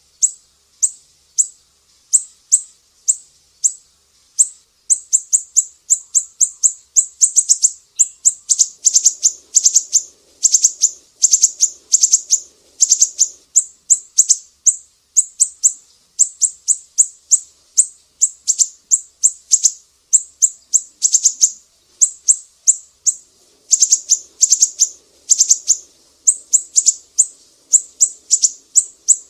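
Sumatran siri-siri bird singing: a long, fast run of short, sharp, high-pitched chirps, several a second, with brief gaps.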